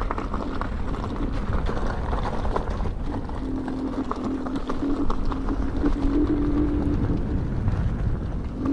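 Electric unicycle ride on a dirt trail: steady low rumble of wind and tyre on the ground, with scattered small knocks. From about three and a half seconds in, the Inmotion V12 HT's hub motor joins with a steady hum.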